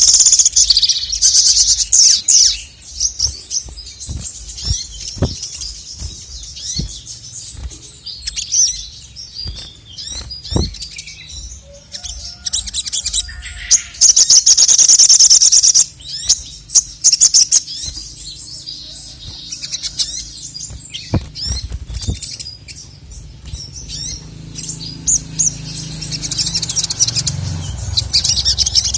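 Male sogon (sogok ontong, a sunbird) singing: loud, fast, high trills in bursts near the start, around the middle and near the end, with scattered short chirps between.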